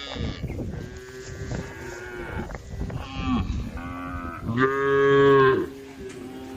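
Cows mooing: a string of overlapping calls, the loudest a long moo starting about four and a half seconds in and lasting about a second.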